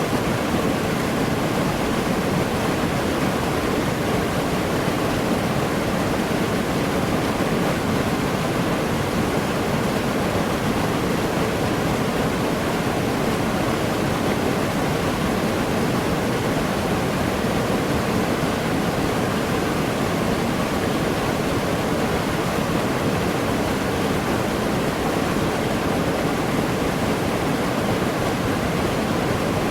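Waterfall crashing into a pool: a steady, even rush of falling water with no breaks or changes.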